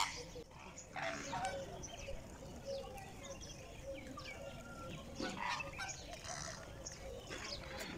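Assorted bird calls, short and scattered, over faint distant voices.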